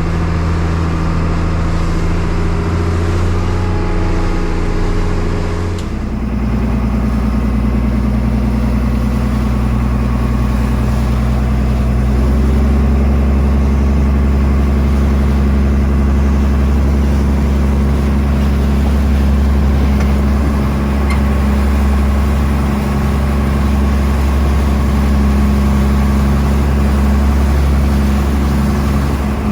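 Fishing boat's engine running steadily and loudly; about six seconds in its note changes abruptly as the engine speed is changed, then it runs on steady.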